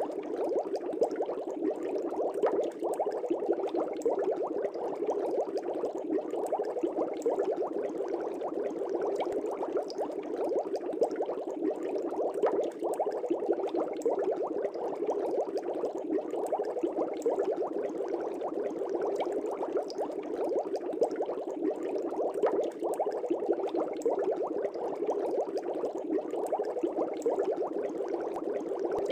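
Air bubbles rising through a fish tank, bubbling steadily and densely with many small pops.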